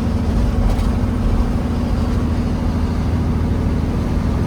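Peterbilt 379 semi truck's diesel engine running steadily while driving, heard inside the cab as a low drone with road noise.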